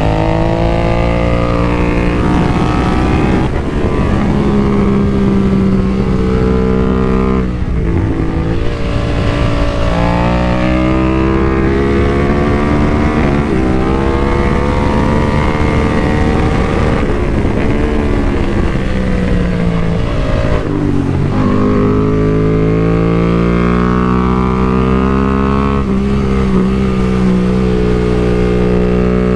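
BMW F 900 R Cup racer's parallel-twin engine at full throttle on track. Its pitch climbs through each gear and drops sharply at the shifts, several times, under a constant wind rush on the bike-mounted microphone.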